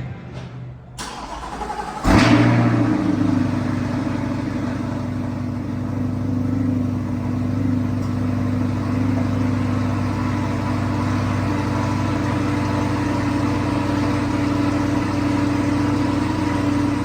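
A car engine fires up about two seconds in, then idles steadily.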